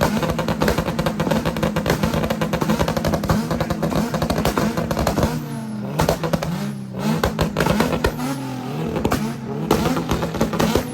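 Car engine held on a two-step launch limiter, its exhaust crackling with rapid pops throughout. From about halfway through, the engine note wavers up and down as the revs bounce.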